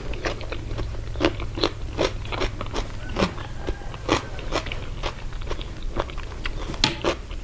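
Close-up chewing of a pickled seafood salad of jellyfish and shrimp, with crisp crunches a few times a second over a steady low hum.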